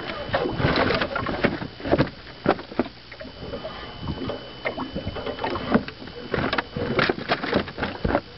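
Large northern pike flopping on the floor of a boat: irregular knocks and thumps, several to the second at times, as it thrashes.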